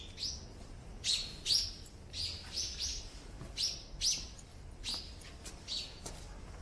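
Small birds chirping: a run of short, high calls, about two a second.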